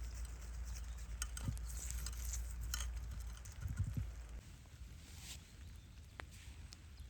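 Scattered light clicks and rustling with a soft low knock about four seconds in, over a low rumble that fades away about halfway through.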